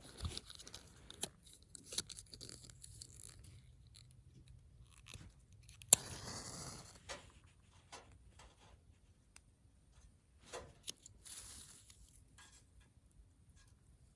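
Hands handling things at close range: scattered small clicks and knocks with short stretches of rustling and crinkling. The loudest moment is a sharp click about six seconds in, followed by about a second of rustling, and there is another rustle near eleven seconds.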